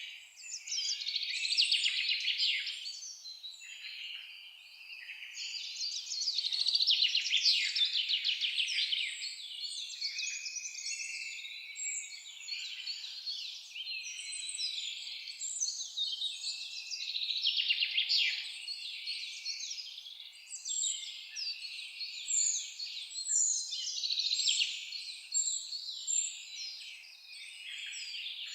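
A chorus of songbirds singing over one another, dense rapid high trills and chirps that swell and fade.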